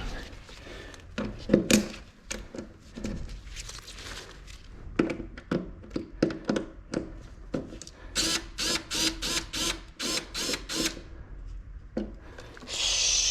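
Knocks, clatter and handling noises of hands working on an air conditioner indoor unit and its piping. About eight seconds in there is a quick even run of about nine sharp scraping strokes, and there is a short hiss near the end.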